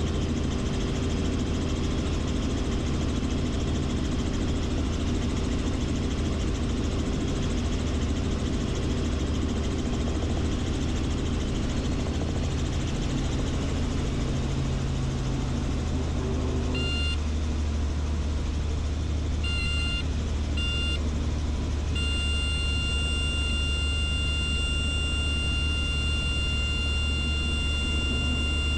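Helicopter engine and rotor running with a steady drone. A steady warning horn sounds briefly about 17 seconds in, twice more around 20 seconds, then holds continuously from about 22 seconds on.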